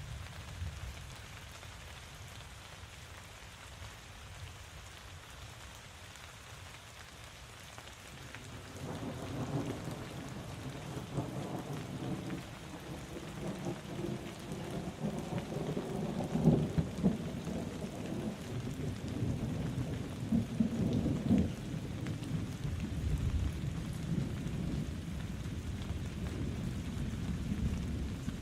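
Steady rain falling, joined about a third of the way in by a long low roll of thunder that swells louder twice before easing into a continuing rumble.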